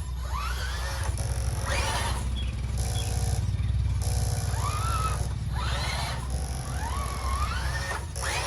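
Small electric RC car motors whining, their pitch rising and falling again and again in short throttle bursts about once a second, over a steady low drone.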